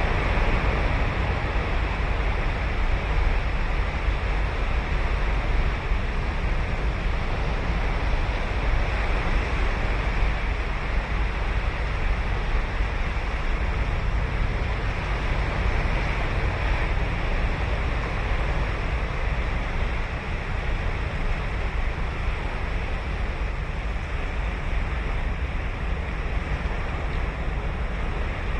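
Ocean surf breaking and washing on a sandy beach, a steady rushing roar that swells and eases a little, with wind buffeting the microphone low down.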